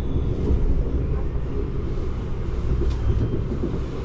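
Regional passenger train running along the line, heard from inside the carriage: a steady low rumble.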